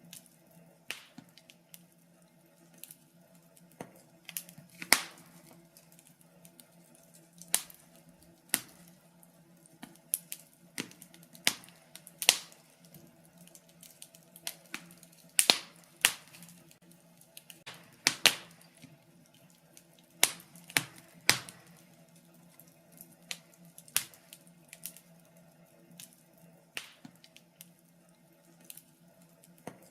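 Wood fire in a fireplace crackling, with irregular sharp pops, a few louder than the rest, over a faint steady hum.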